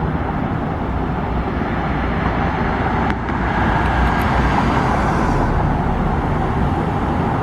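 Steady roar of jet airliner engines mixed with outdoor airport and traffic noise. A brief click about three seconds in, after which a higher hiss joins the roar for a couple of seconds.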